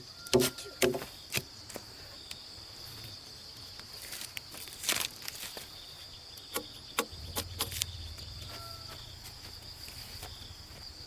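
Insects chirring in a steady high-pitched drone, with scattered light knocks and footsteps. A low hum comes in about two-thirds of the way through.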